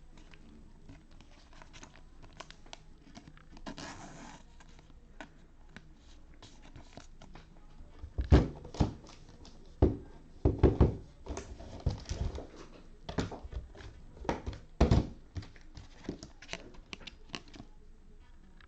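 Trading cards and their foil pack wrappers being handled on a table: a brief rustle about four seconds in, then a run of sharp taps and clicks as cards are shuffled, set down and tapped.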